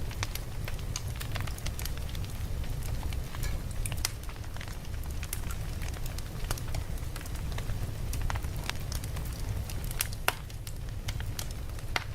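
Campfire crackling: scattered sharp pops and snaps over a steady low rumble of flames, with one louder pop about ten seconds in.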